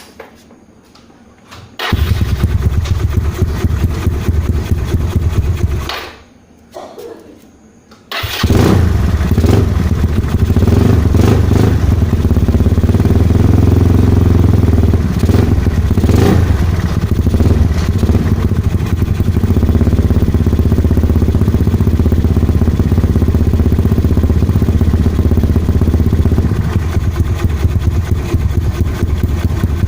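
Yamaha Mio scooter's single-cylinder engine, bored up with a 58 mm piston and a Keihin PE28 carburettor, breathing through an original AHM exhaust: it starts about two seconds in, runs for about four seconds and stops, then starts again about two seconds later and keeps running, a little uneven at first and then steady.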